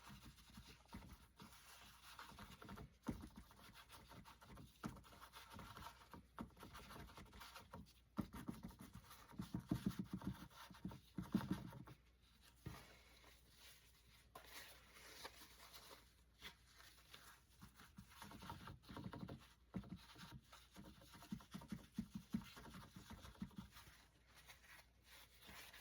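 Faint, irregular dabbing and light scratching of a damp paper napkin loaded with white acrylic paint against a canvas, patting on a mist effect, busier in a few short stretches.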